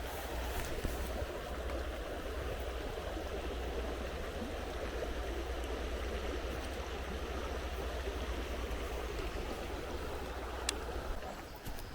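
Flowing river water, a steady rushing that eases off just before the end, with a single sharp click near the end.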